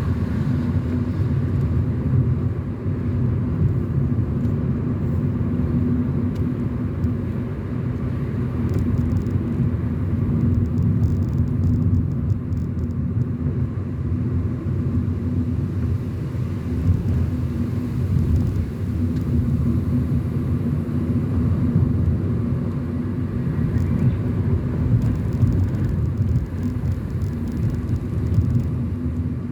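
Steady low rumble of a car driving along a road: engine and tyre noise with no sharp events.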